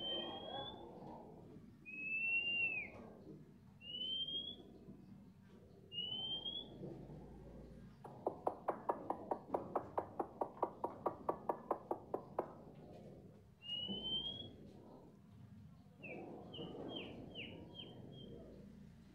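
A caged jalak (starling) in full song: short clear whistled notes, most of them rising, about every two seconds. Midway comes a run of rapid sharp clicks, about four a second, and near the end a quick series of short falling notes.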